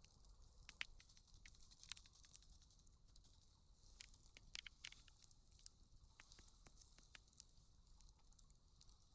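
Campfire crackling faintly: sparse, irregular snaps and pops over a soft hiss.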